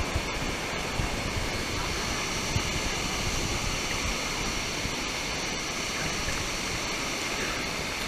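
Steady rush of water from a small waterfall and its pool.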